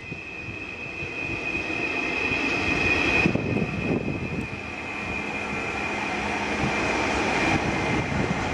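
Stadler FLIRT electric multiple-unit train approaching and passing close by: a steady high whine over the rumble of wheels on the rails, growing louder as it nears.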